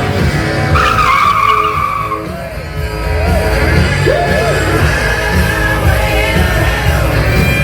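Loud music with a steady bass beat, and drift cars' tyres squealing as they slide, most strongly in a falling screech about a second in.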